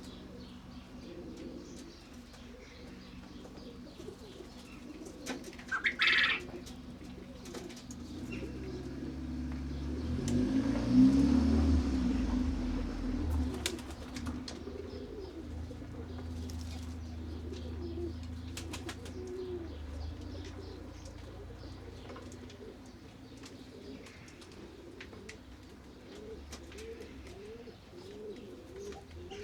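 Domestic pigeons cooing over and over, with wing flaps and scattered sharp clicks. About a third of the way in, a loud low rumble rises in pitch, then fades.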